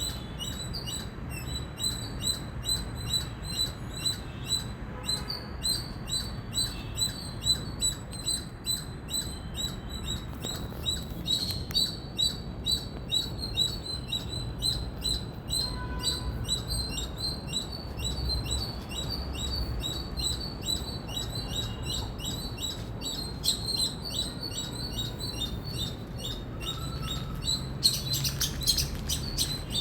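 Palm squirrel chirping: a steady run of short, high chirps, about two a second, with a brief louder flurry near the end.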